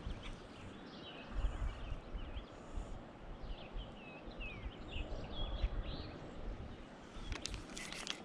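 Birds chirping in the background over a low rumble on the microphone, with a few sharp clicks near the end.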